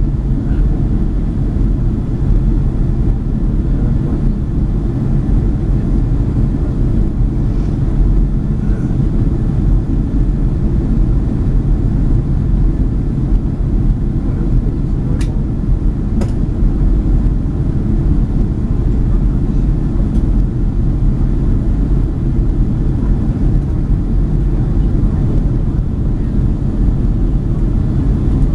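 Steady low rumble of engine and airflow noise inside the cabin of a Boeing 767-300ER on approach, with two faint clicks about halfway through.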